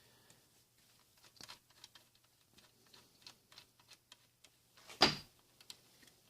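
Light scattered clicks and taps of hand tools and a small metal part being handled at a workbench, with one louder sharp knock about five seconds in, over a faint steady low hum.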